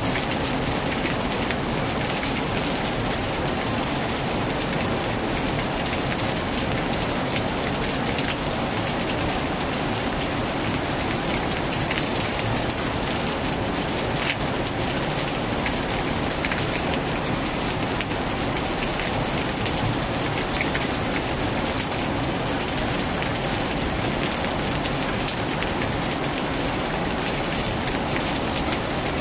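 Heavy rain falling steadily, pattering on a tin roof with many fine drop ticks and no rise or fall in intensity.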